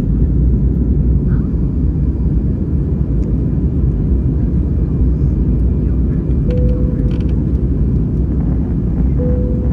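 Steady deep rumble of an Airbus A320 airliner in flight: engine and airflow noise. Two short, faint tones come through the rumble, one past the middle and one near the end.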